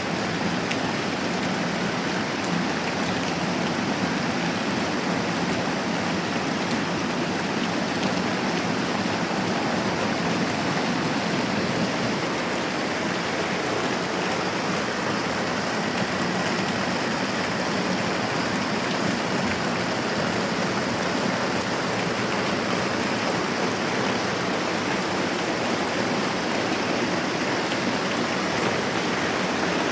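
Moderate rain falling steadily, an even hiss of many drops with no change in strength.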